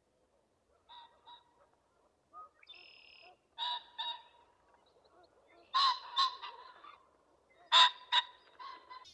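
A bird giving short, pitched calls, mostly in pairs, repeating about every two seconds; the loudest pair comes near the end.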